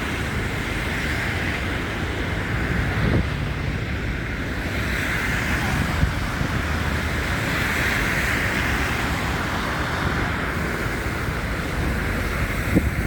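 Wind rumbling on a phone's microphone over a steady wash of city traffic noise that swells and fades, with a few brief knocks about three seconds in and near the end.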